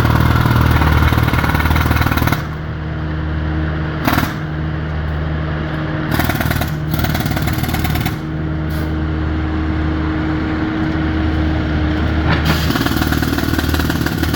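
Construction machinery running at a curb work site: a steady engine hum, with a loud noisy tool cutting out about two seconds in and a few knocks and clatters after.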